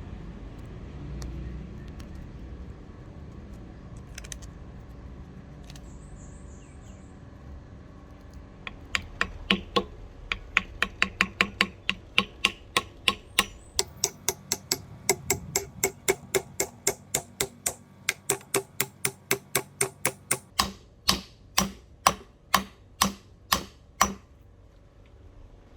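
A long, even run of sharp taps, about three a second, from a hand tool striking repeatedly during axe-handle work. The taps start about nine seconds in, grow louder toward the end and stop shortly before it.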